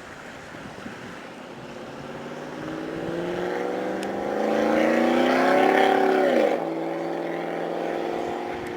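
Chevy Z-71 pickup truck engine revving up under throttle, rising in pitch and loudness for several seconds. About six and a half seconds in it drops sharply to a lower, steady note as the throttle comes off.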